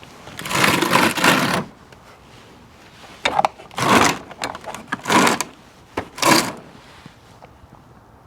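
Several bursts of rattling and scraping from objects being handled: one longer burst about half a second in, then four shorter ones in the middle of the stretch.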